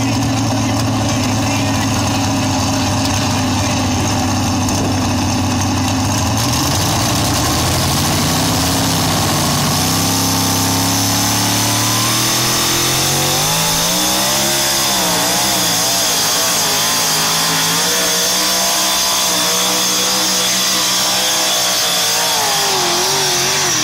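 A competition pulling engine running hard and loud. Its pitch holds steady for the first few seconds, then climbs, wavers up and down in the middle, and stays high toward the end, as the engine works under the load of the pull.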